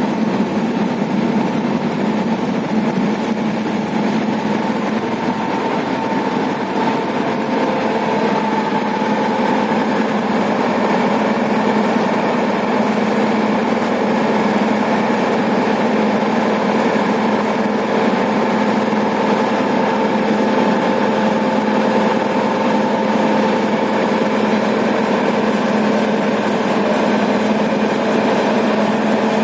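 A steady engine drone, like engines idling, with an even hum and no sharp bangs.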